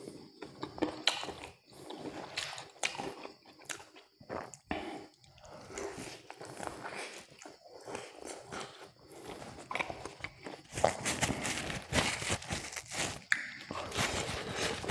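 Biting and chewing crunchy KFC fried chicken: a run of irregular crackly crunches and chewing sounds, growing louder and denser in the second half.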